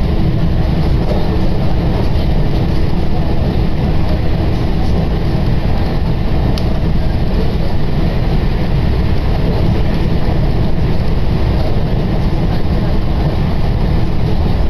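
Steady low rumble of a Tokaido Line commuter train running, heard from inside the passenger car, with a faint steady hum under it.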